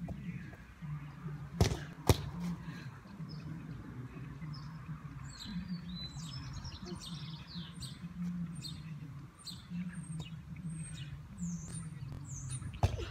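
Small birds chirping repeatedly over a low steady background hum, with two sharp thumps about two seconds in and another near the end.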